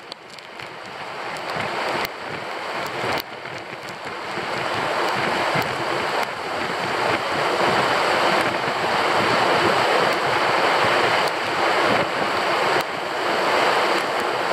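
Heavy rain pouring down on a lake and an open canoe, building steadily louder over the first several seconds into a dense downpour, with scattered sharp taps of drops.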